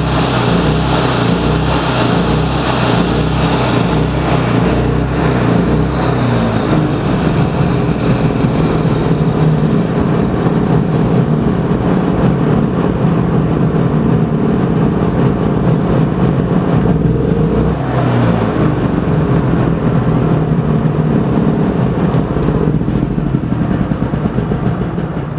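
Engine of a Suzuki SW140S engine-driven welder-generator running steadily.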